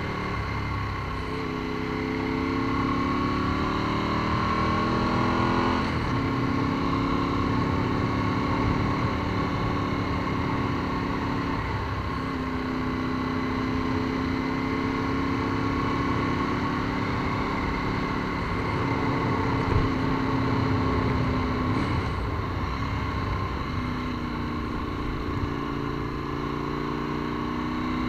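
Ducati 748's L-twin engine running hard at speed, its note rising as it accelerates and dropping back at each gear change, several times over, with rushing wind and road noise.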